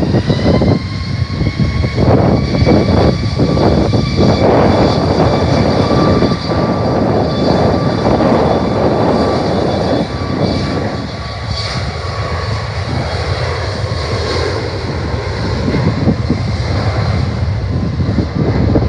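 Jet airliner's engines passing close by, a steady high whine over a loud rumble, with wind buffeting the microphone; the whine fades near the end.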